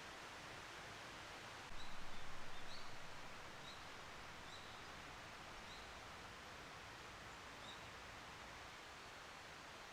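Small birds giving short, high chirps every second or so over a steady rushing hiss of outdoor ambience. A brief low rumble comes about two seconds in.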